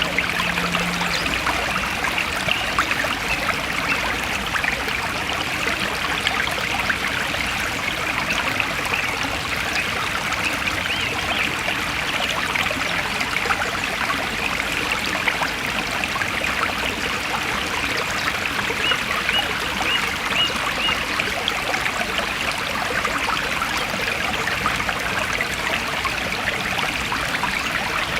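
Forest stream flowing steadily over stones, an even babbling rush of water. A few faint, high, short chirps come about two-thirds of the way through.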